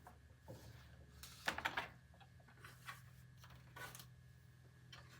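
A few light clicks and rattles of metal parts being handled on a workbench, the clearest about one and a half seconds in and again near four seconds in, over a steady low hum.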